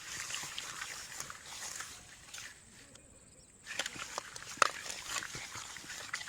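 Wet squelching and slapping of hands rubbing cut fish pieces with turmeric and salt, with many small clicks and one sharp smack about four and a half seconds in.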